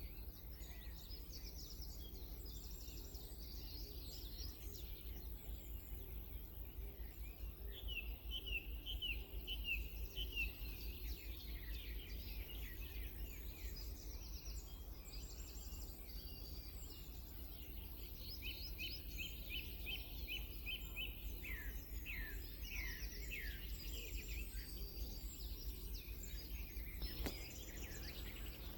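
Several songbirds singing at once, overlapping songs made of rapid series of short, repeated chirps and falling notes, over a steady low rumble. A single click near the end.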